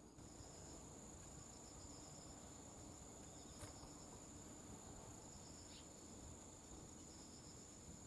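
Near silence: a faint steady high whine with faint insect chirping recurring every second or so.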